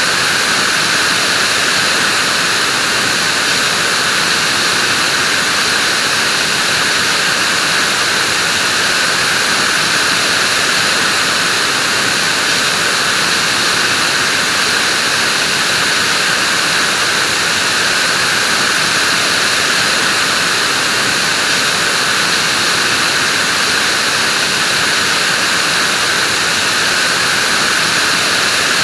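Vacuum cleaner running steadily, a constant loud hiss and whine with no change in pitch or level.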